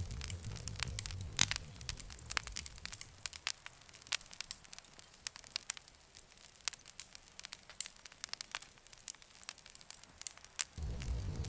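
Wood fire crackling, with irregular sharp pops. A low rumble under it fades out after a few seconds and comes back suddenly near the end.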